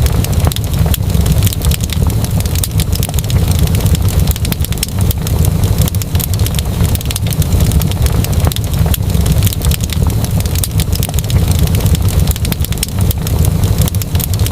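Fireplace fire crackling, with many sharp pops over a steady low rumble.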